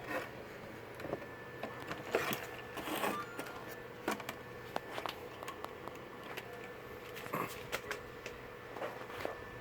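Scattered light clicks and knocks of hands handling tools and parts, over a faint steady hum.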